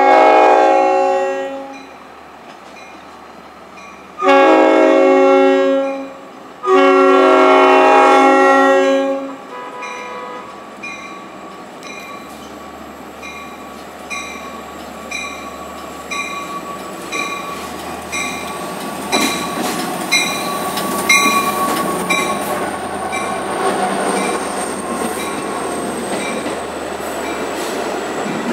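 An LIRR EMD DE30AC diesel locomotive's Nathan K5LA air horn sounds three loud chord blasts, the last a little longer. After the horn a grade-crossing bell dings steadily, about every 0.7 s. Then the train of bilevel coaches rolls in past the platform with a high, steady wheel squeal.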